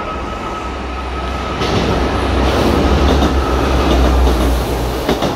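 Passenger train running past close by, its low rumble growing louder about a second and a half in, with a couple of sharp clicks near the end.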